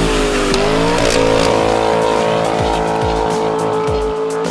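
A car engine revving up to a high, steady pitch and holding there, over background music with a steady beat.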